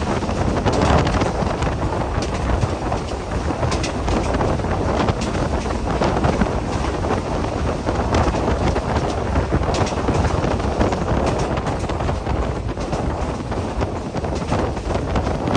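Passenger train running: a steady rumble with frequent rattles and clicks, and wind buffeting the microphone.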